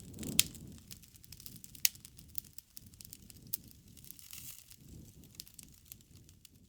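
Wood fire crackling: scattered sharp pops and snaps over a low rumble of flames, with the loudest pops about half a second in and just under two seconds in.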